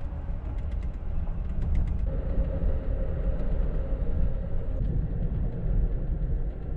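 Amtrak Auto Train sleeper car rolling along, heard from inside the closed roomette: a steady low rumble with a faint hum and a few light ticks in the first couple of seconds.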